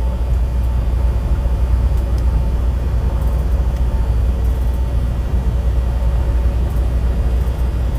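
Steady low drone of a semi truck's engine and road noise heard inside the cab while driving, with a faint steady hum on top.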